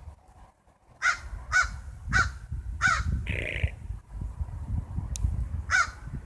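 Crows cawing. After a quiet first second comes a run of short caws about half a second apart, then a longer drawn-out call in the middle, and more caws near the end, over a low rumble.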